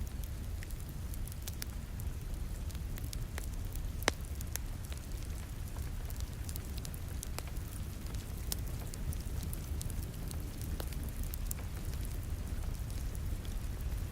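Wood fire crackling in a fireplace, with irregular sharp pops (one louder snap about four seconds in), over a steady rush of rain.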